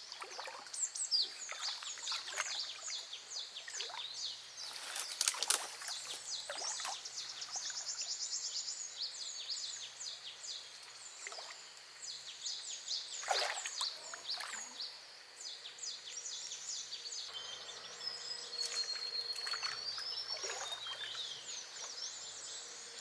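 Birds chirping rapidly and continuously in high, repeated notes, with a longer whistled call near the end. A few short, sharp noises cut in about five seconds in and again around the middle.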